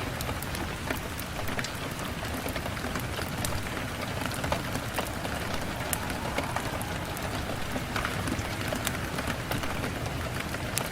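Steady rain on a window: an even rushing hiss with many small sharp ticks of drops striking.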